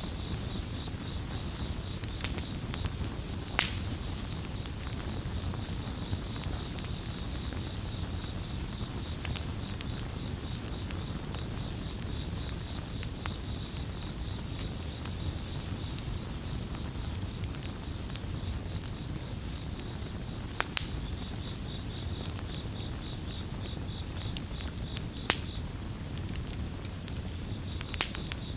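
Wood fire crackling, with scattered clicks and a few louder pops over a low steady rumble, while crickets chirp in a fast, even high trill.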